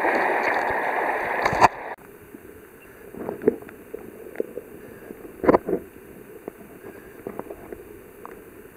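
Water rushing along a sea kayak under way; about two seconds in it cuts off suddenly to quiet lapping, with scattered drips and small splashes.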